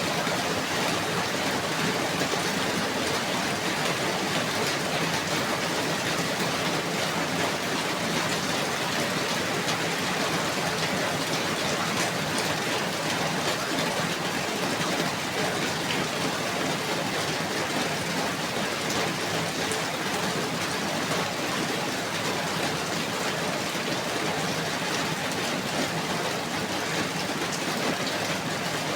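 Steady heavy rain, falling evenly without letting up.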